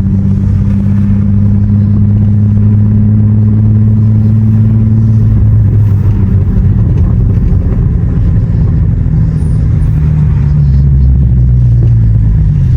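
Infiniti G35's V6 engine and road noise while the car is being driven. The engine note holds steady, then steps lower about halfway through and again near the end.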